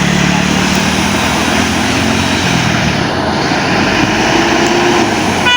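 Heavy truck engine running loud and steady under load, with a dense noise over it.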